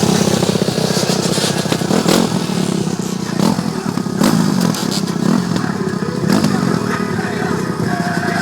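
Dirt bike engine running while riding, its sound swelling several times as the throttle is worked.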